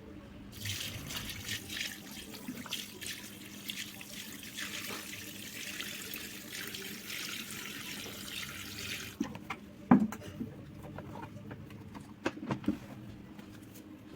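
Water running and splashing steadily in a hand-operated portable laundry washing bucket. It cuts off abruptly after about nine seconds, followed by several sharp knocks and clicks, the loudest just after the water stops.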